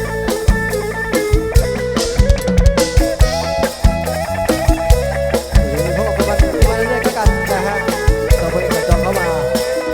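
Live band playing an instrumental passage between sung verses: drum kit keeping a steady beat under guitar and other instruments.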